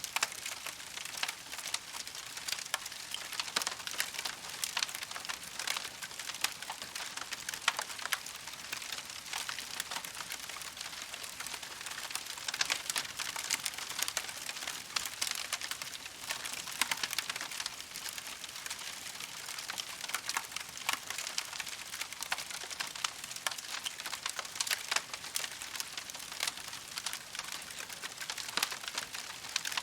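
Wood campfire crackling steadily: a dense, irregular run of small pops and snaps over a soft hiss.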